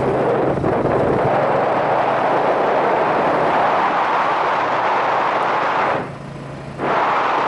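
Yamaha SRX400 single-cylinder motorcycle riding along, heard from the rider's helmet: a steady rush of wind over the microphone with the engine's low note underneath. The rush dips sharply for under a second about six seconds in.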